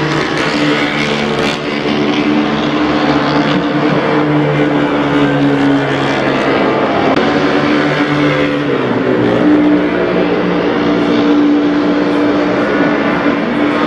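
Engines of vintage racing motorcycles, built before 1972, running hard on the circuit. Several steady engine notes run at once, their pitch shifting a little, with no break.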